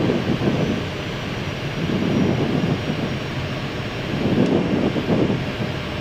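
Steady rush of airflow and engine noise inside the flight deck of an Airbus A319 on final approach, flaps fully extended.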